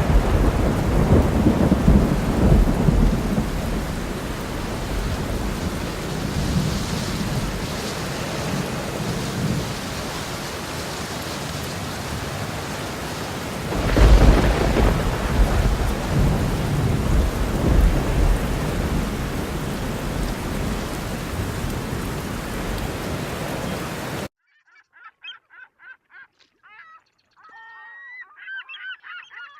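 Heavy rain with thunder rumbling twice, a second in and again about halfway through, then cutting off abruptly; geese honking over the last few seconds.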